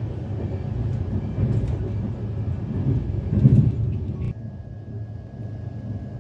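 Running rumble of a passenger train coach heard from inside, wheels on the track, with a few faint clicks. It swells about three and a half seconds in, then drops suddenly to a quieter rumble a little after four seconds.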